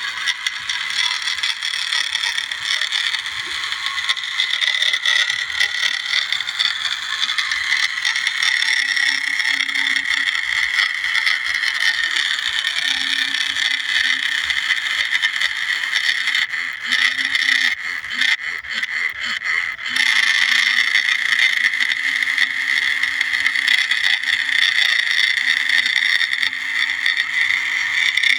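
Small, heavily geared electric motor and gearbox of a remote-control New Holland toy tractor whining steadily as it drives, with a few brief dips and somewhat louder for the last third.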